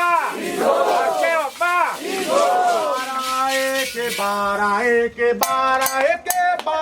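Voices in Candomblé chant: rising-and-falling calls for about three seconds, then held sung notes that step from pitch to pitch. Sharp drum or bell strikes come in about five and a half seconds in.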